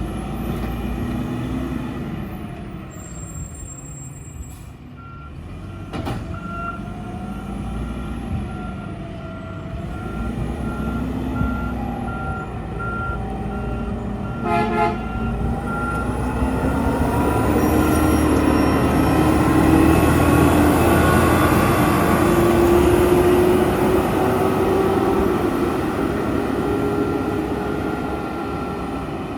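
Mack LEU garbage truck's diesel engine running, its revs rising and falling every few seconds, while a reversing beeper beeps steadily for about ten seconds. A short toot comes about halfway through. The engine then revs up with a rising pitch and holds high, the loudest part, before easing off near the end.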